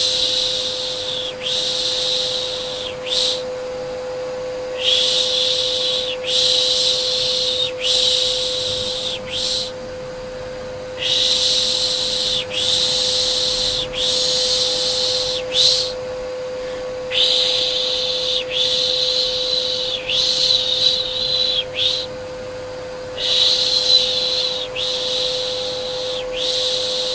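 Repeated 'shh, shh' shushing, each shush about a second long, in runs of four or five with a short pause about every six seconds, over a steady vacuum cleaner hum.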